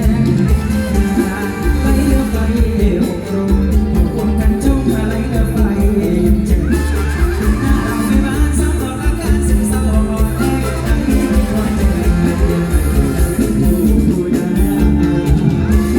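Live mor lam band music: a heavy bass and drum beat under a melody line with singing.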